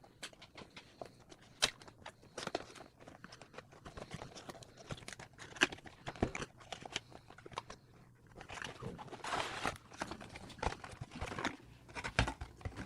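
Cardboard retail box of a wireless mouse being opened by hand: scattered snaps, clicks and scrapes of the flaps and packaging, with a longer tearing or sliding rasp about nine seconds in.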